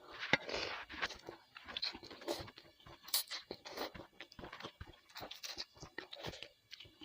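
Close-miked mouth sounds of someone eating bakso (Indonesian meatball soup): irregular wet chewing and smacking with crunchy bites.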